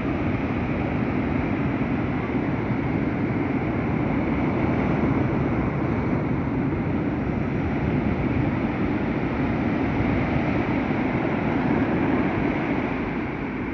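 Sea surf: a steady rushing of waves with a low rumble, without distinct single crashes.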